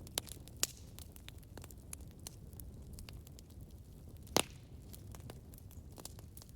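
Campfire crackling: irregular sharp pops and snaps of burning wood over a low, steady rumble of the flames. There is one louder pop about four seconds in.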